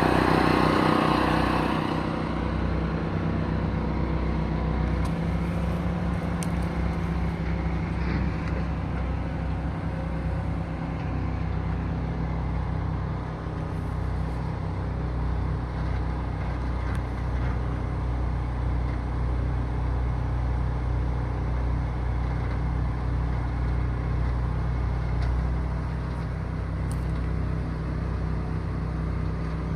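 Box truck engine idling steadily. It is a little louder for the first two seconds, then settles to an even idle.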